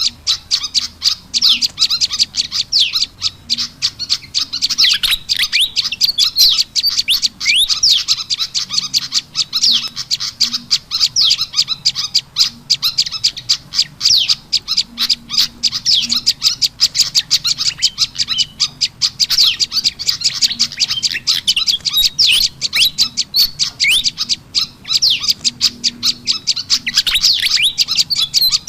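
Olive-backed tailorbird (prenjak lumut) calls mixed with excited fantail (kipasan) chattering, a dense, rapid, continuous stream of high chirps and quick sweeping notes, played as a bird-lure call.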